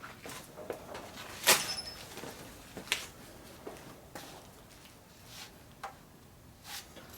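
Scattered metallic clicks and knocks of hand tools being handled while working on an engine, about a dozen separate strikes; the loudest, about a second and a half in, leaves a brief high ring.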